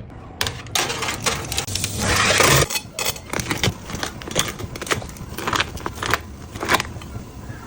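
Crunching of crisp oven-baked garlic bread with a cheese topping: a long, loud crackling crunch about two seconds in, then a run of sharp crunches about twice a second.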